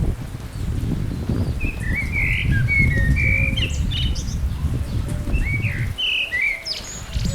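Small birds chirping: a run of short, quick notes starting about a second and a half in, then a few more near the end. Under them a steady low rumble, likely wind on the microphone, drops away briefly near the end.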